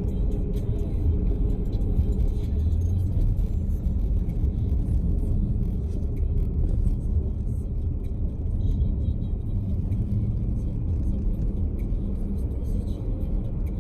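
A steady low rumble of road noise inside a moving car.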